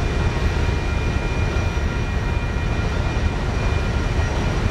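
Steady, loud rumble of a freight train that has just cleared the grade crossing, heaviest in the bass, with a few faint steady tones above it.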